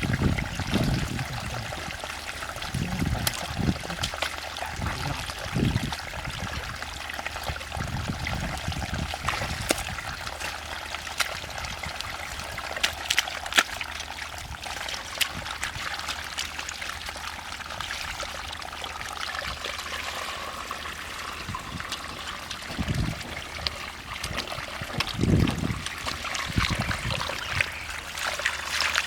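Water trickling and running steadily, with scattered faint clicks and a few low thumps near the start and again near the end.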